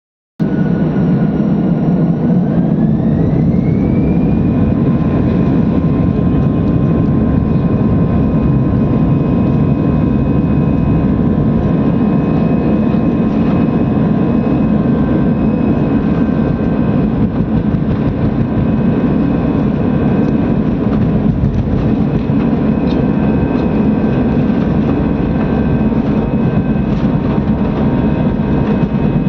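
Jet airliner engines spooling up to take-off thrust: a rising whine over a few seconds, about two seconds in, then a loud, steady engine noise with a held whine over it.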